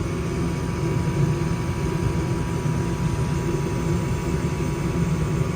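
Old Goodman gas furnace running steadily with its fans turning, a steady whine carried over the low hum. The technician suspects the noise comes from worn bearings in the inducer fan.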